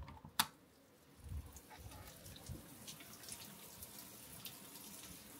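Rain falling, faint and steady, with single drops ticking here and there; it comes up about a second in.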